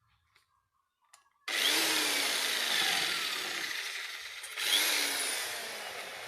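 A small power tool cutting or grinding, starting suddenly about a second and a half in and slowly fading, then starting again with a second loud burst near the end.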